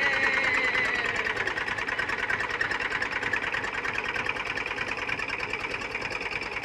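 Eicher 380 tractor's diesel engine running with a fast, steady clatter.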